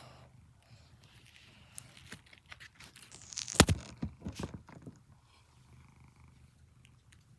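Domestic cat purring steadily close to the microphone, with a cluster of knocks and scraping rubs in the middle, the loudest about halfway through.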